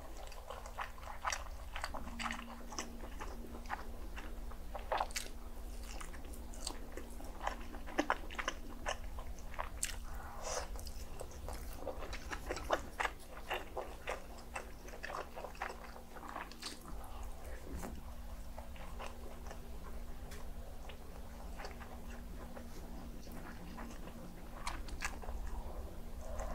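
A person chewing and biting close to the microphone, with many small wet clicks and soft crunches: mouthfuls of grilled sausage, then rice and kimchi stew. A faint steady hum lies underneath.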